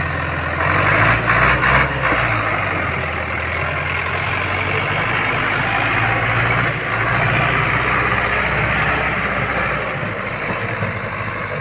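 HMT 5911 tractor's diesel engine running just after starting, uneven for a moment about a second in, then settling into a steady run.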